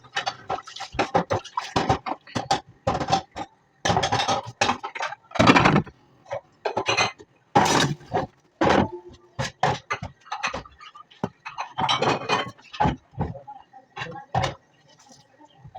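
Dishes and utensils clattering and clinking, a rapid irregular run of short knocks that goes on without a break.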